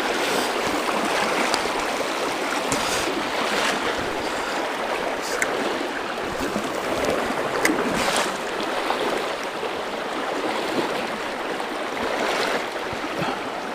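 River water rushing steadily past the microphone: a continuous, fairly loud hiss of fast-flowing water, "water ripping".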